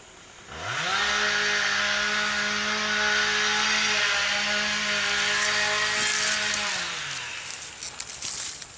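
Two-stroke chainsaw revved up to full throttle about half a second in, held steady for about six seconds, then eased off, the pitch falling back. There are scattered crackles near the end.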